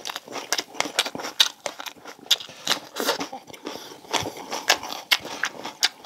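Close-miked chewing of a crunchy mouthful of food: many quick, irregular crisp crunches.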